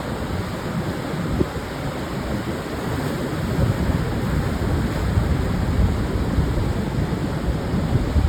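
Pacific surf washing onto a wide sandy beach in a steady, low rumble, with wind buffeting the microphone.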